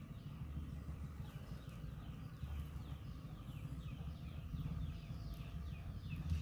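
A bird calling in a quick series of short, falling notes, about two a second, over a steady low rumble.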